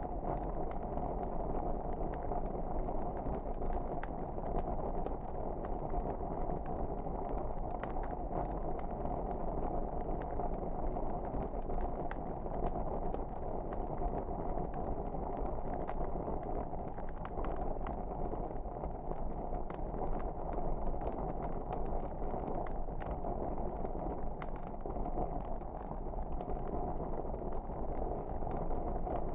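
Wood fire crackling, with frequent small snaps and pops over a steady low rush of burning flames.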